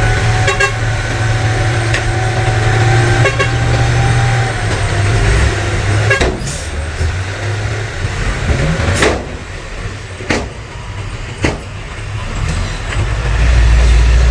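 Heavy diesel earthmoving machinery running: a steady low engine hum, loudest in the first few seconds, then several sharp knocks and clanks in the second half.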